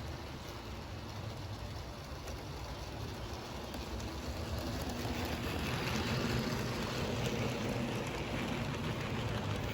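HO-scale model train running on Kato sectional track: a steady rumbling whir of the locomotive motor and wheels on the rails, growing louder around the middle as it comes closer.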